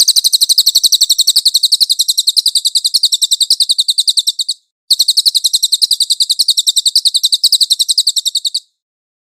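Cililin bird singing a loud, high-pitched trill of rapidly repeated notes, more than ten a second, in two long bouts: the first breaks off about four and a half seconds in, and the second stops near the end.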